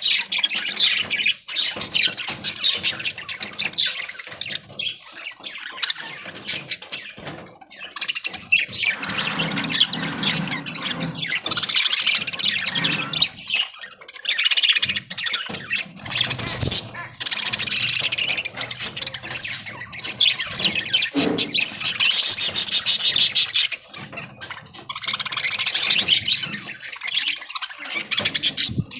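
A flock of budgerigars chattering and chirping together, many birds at once, the din swelling and easing in waves.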